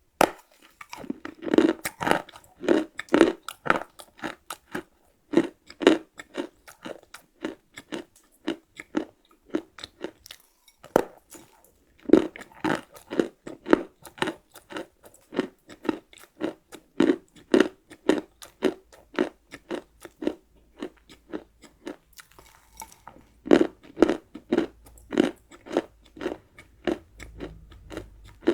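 Close-miked chewing of a hard, crisp chocolate cookie: crunching in a steady rhythm of about two chews a second, pausing twice along the way.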